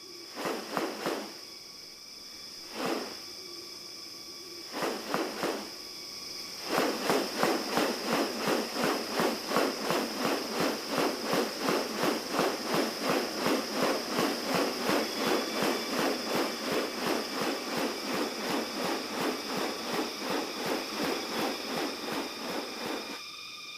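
Rainforest animal sounds: a steady high-pitched insect drone throughout. Over it, a few short groups of pulsing calls, then from about seven seconds in a long run of even pulses at about three a second that stops near the end.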